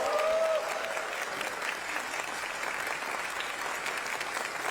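Audience applauding steadily at the end of a speech, with one voice calling out briefly in the first second.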